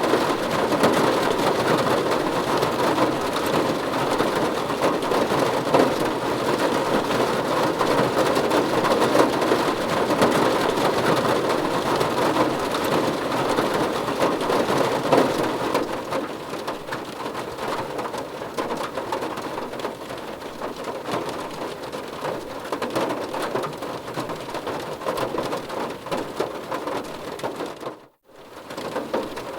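Steady rain falling on a car's roof and windows, heard from inside the car. It eases somewhat about halfway through, then cuts out for a moment near the end before resuming.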